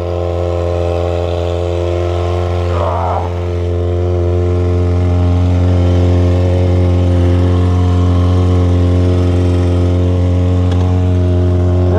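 Motorcycle engine idling steadily as it warms up, one even low note with its overtones.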